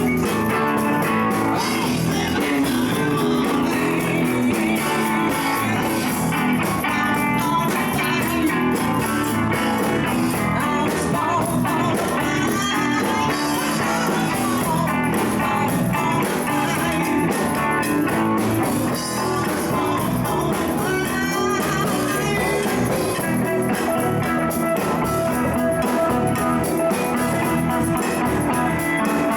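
Live band jamming a blues-rock groove, with guitar out front over a bass line.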